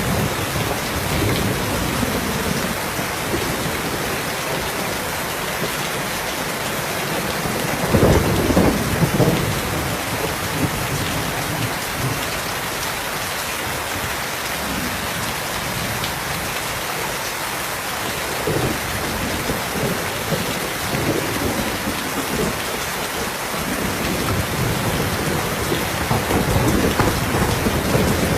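Steady heavy rain with low rolling thunder swelling up about a third of the way in and again near the end.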